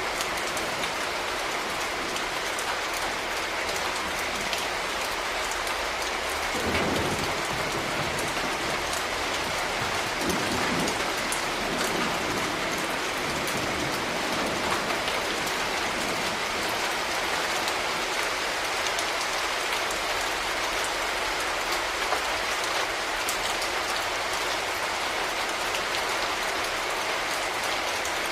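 Steady rain falling and pattering on a surface, with individual drops ticking through it. A brief low rumble swells about seven seconds in and again around ten to twelve seconds.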